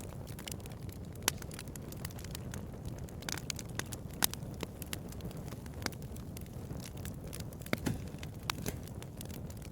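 Bonfire crackling: a steady low rumble of burning wood under frequent, irregular sharp pops and snaps, the loudest a little past one second in, about four seconds in, and near the end.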